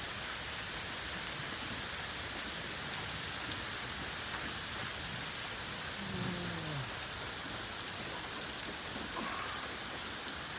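Steady rain from a severe thunderstorm falling on surfaces, with scattered drops ticking. About six seconds in there is a brief low tone that falls in pitch.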